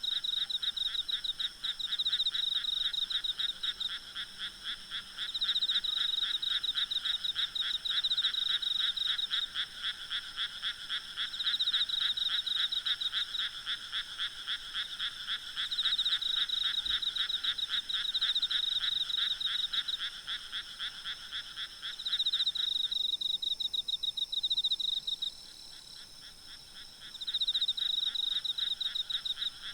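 A chorus of frogs calling in fast pulsed trills, in overlapping bouts of a few seconds each, over a steady high-pitched trilling of insects. The lower part of the frog chorus stops for a few seconds about three-quarters of the way through.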